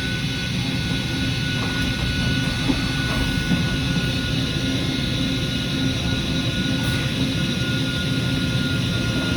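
Hurco CNC milling machine running steadily: a steady high whine over an even mechanical drone.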